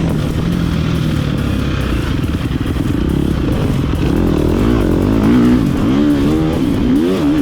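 Motocross dirt bike engine running hard, the throttle blipped open and shut so the pitch rises and falls several times in the second half.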